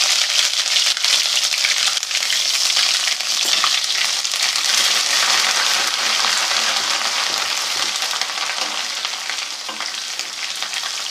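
Garlic-ginger paste sizzling in very hot ghee with curry leaves: a dense, crackling hiss, loudest at first and slowly dying down as the paste cooks.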